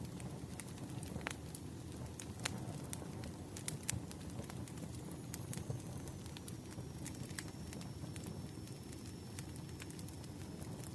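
Campfire burning: a steady low rumble of flames with irregular sharp crackles and pops of the wood. About halfway through, a faint thin high whistle sets in and holds, sinking slightly in pitch.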